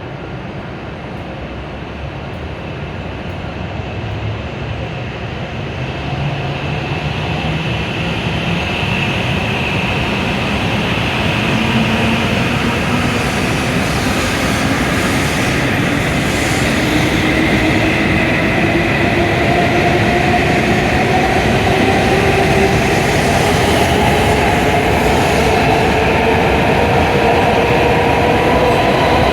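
W7 series Shinkansen pulling away from the platform, its traction motors whining in several tones that rise slowly in pitch as it gathers speed, over running noise that grows louder over the first dozen seconds.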